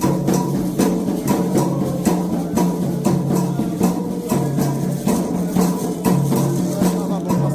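Candomblé ritual percussion: atabaque hand drums with a sharp struck bell keeping a steady, repeating rhythm.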